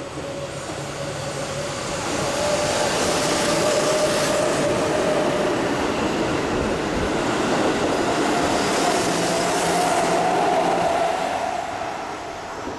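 Keihan Main Line limited express train passing through a station at speed without stopping. The noise swells over about two seconds, stays loud with a steady whine, and fades away near the end.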